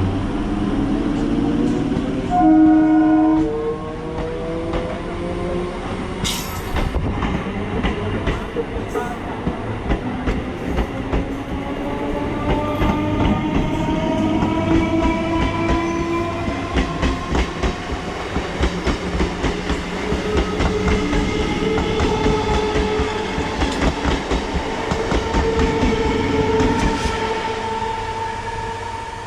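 Indian Railways EMU electric train sounding a short horn blast about two seconds in, then pulling away with a steadily rising electric motor whine and wheels clattering over the rail joints, fading near the end.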